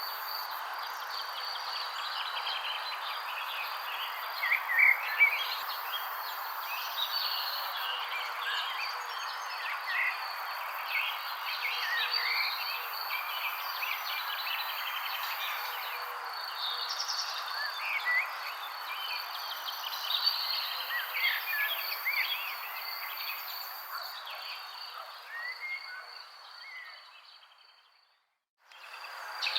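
Many short bird chirps over a steady background of insects with a constant high trill. It fades out near the end, with a moment of silence before chirping starts again.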